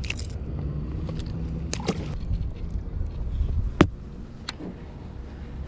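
A low steady motor hum, with two sharp clicks about two seconds apart.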